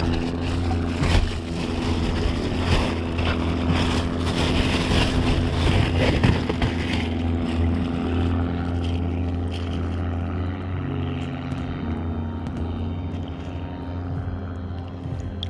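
A motorboat engine running steadily with a low drone that shifts slightly in pitch about eleven seconds in, over a hiss that thins out after about eight seconds.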